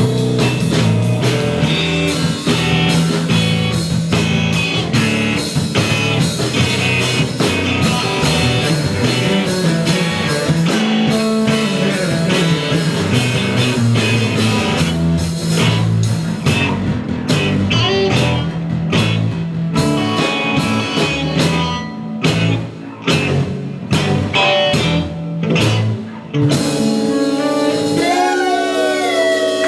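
Rock band playing live: electric guitar, bass and drums, with a steady beat. About halfway through, the band breaks into short, sharp hits with gaps between them. Near the end it settles into held chords under a bending guitar lead.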